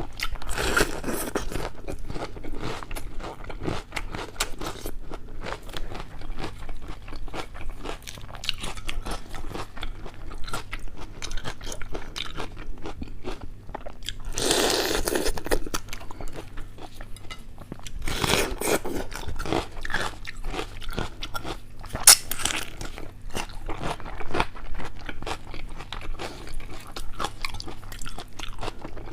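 Close-miked eating: steady crunching, biting and chewing of food, with a few louder stretches and one sharp click about three-quarters of the way through.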